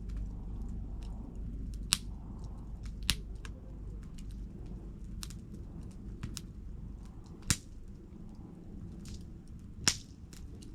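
Wood campfire crackling: scattered small ticks and four sharp pops spread through, over a low steady rumble of the burning fire.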